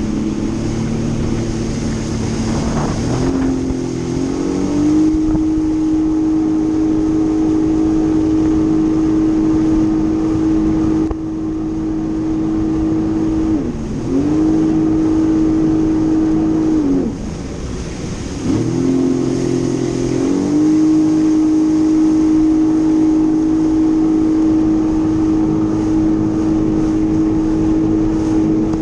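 Jet ski engine running at high throttle: the revs climb a few seconds in and hold steady, drop off and pick up again twice around the middle, then climb back and hold, over a rush of wind and water.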